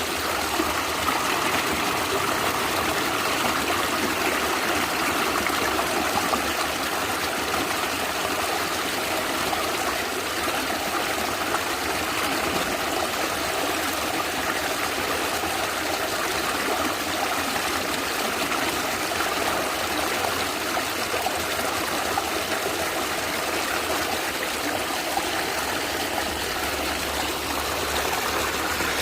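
Stream water gurgling and trickling steadily.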